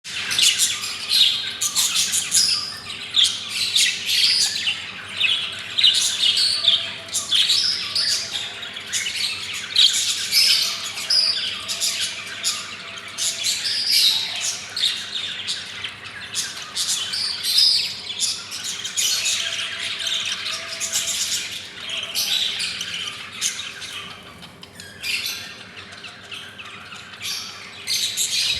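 Baby budgerigars chirping and squawking, a dense, continuous chatter of rapid high-pitched calls that eases briefly near the end.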